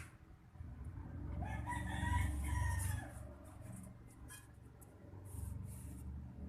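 One long, arching animal call with a clear pitch, starting about a second and a half in and lasting about a second and a half, over a low rumble and a few faint clicks.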